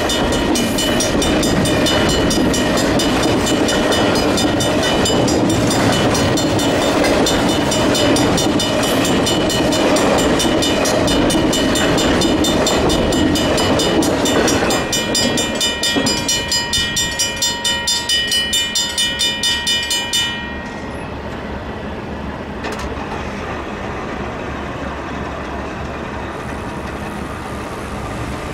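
Intermodal freight train rolling past, its wheels and cars rumbling and clattering over the rails, with the crossing's mechanical bells ringing in steady rapid strikes. The train noise drops off about halfway through as the last cars pass, and the bells stop suddenly a few seconds later.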